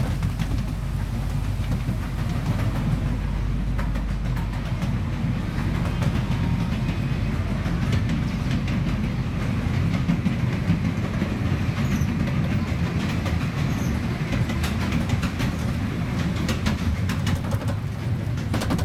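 Small zoo park train running along its track, heard from aboard: a steady low rumble and rattle with frequent light clicks from the wheels and cars.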